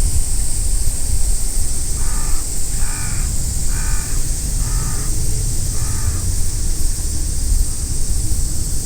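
A crow cawing five times, about once a second, over steady wind noise on the microphone.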